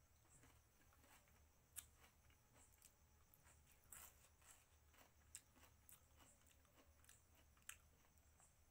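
Faint close-up chewing of mutton curry eaten by hand: soft wet mouth clicks and smacks, a few of them sharper, scattered throughout.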